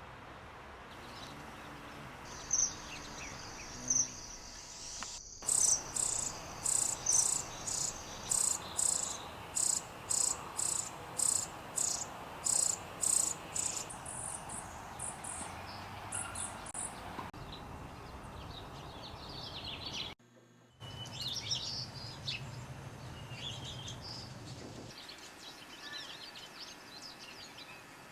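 Wild birds calling in a run of short recordings joined by abrupt cuts. For several seconds a high, thin note repeats about twice a second, then scattered higher chirps follow.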